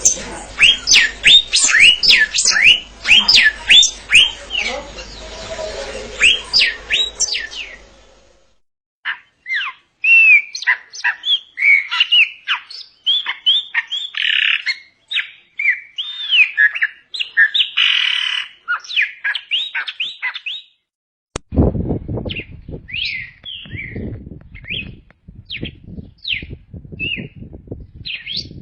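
Songbirds singing: rapid runs of sweeping whistled notes in quick succession. The recording cuts abruptly twice, about 8 seconds in and again about 21 seconds in, with low rough noise underneath in the last part.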